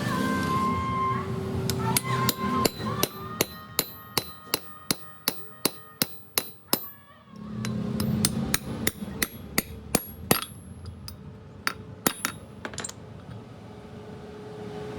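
Hammer striking metal in a run of repeated blows, about two to three a second, each with a bright metallic ring, with a short pause midway; the blows thin out and stop near the end.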